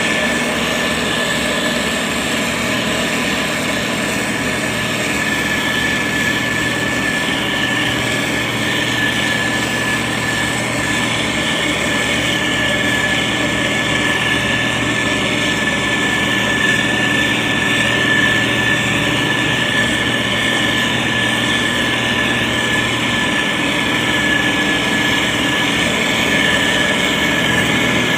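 SANY STG190C-8S motor grader's diesel engine running steadily under work, with a steady high whine above the engine hum.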